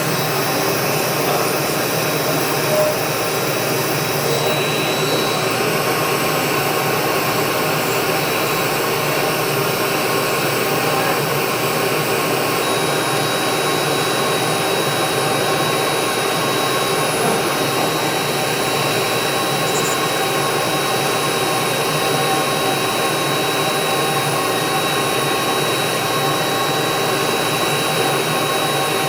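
Electric foot-care drill or file running continuously, a steady whir with a high, fixed motor whine, as used to grind down corns and plantar warts.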